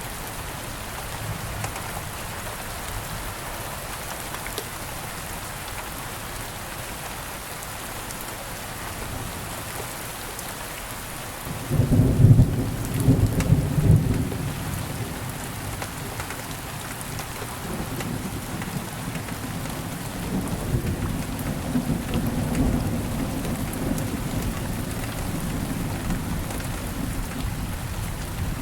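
Steady rain falling, with a roll of thunder breaking in suddenly about twelve seconds in, loudest for a couple of seconds, then rumbling on low under the rain.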